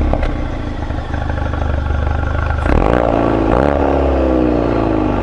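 Exhaust of a 2016 Mk3 Ford Focus RS's 2.3-litre turbocharged four-cylinder, heard from a microphone at the rear of the car, idling just after start-up. About three seconds in it gives a short rev, then its pitch slowly sinks back toward idle.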